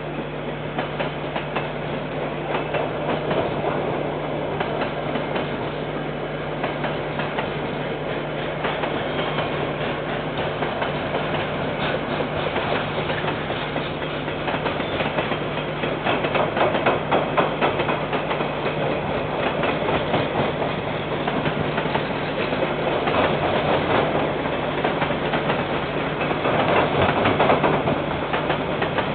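Freight train wagons rolling past on the line: steady rumbling wheel noise with a rapid clickety-clack of wheels over the rail joints, swelling louder about halfway through and again near the end.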